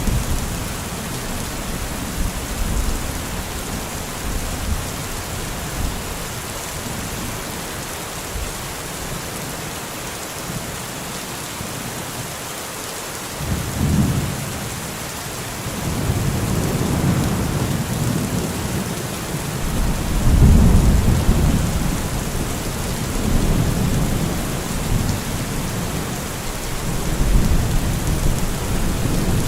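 Steady rain with thunder rolling in: a short low rumble about halfway through, then longer rumbles, the loudest about two-thirds of the way in and another near the end.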